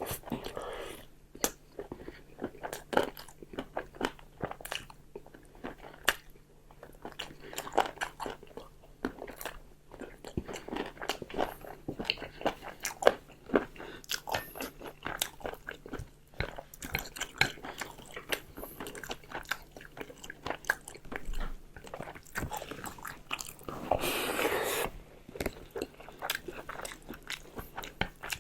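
Close-miked eating: biting and chewing with crunches and wet mouth clicks, in short irregular bursts. About three quarters of the way through, one denser noisy sound lasts about a second.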